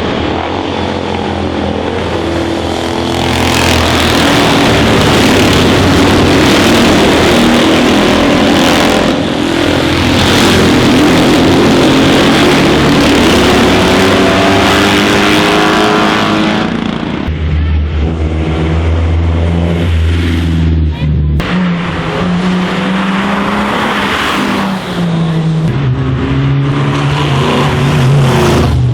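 Racing car engines accelerating hard up a hillclimb, revving up and dropping back with each gear change as they pass. The engine is loudest through the middle of the first half.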